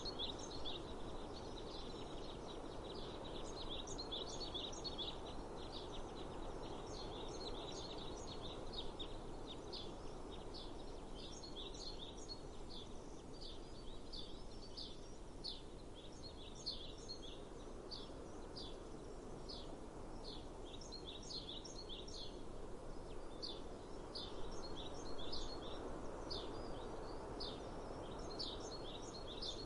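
Small birds chirping over and over in quick clusters of short, high notes, over a steady low background rush of outdoor noise.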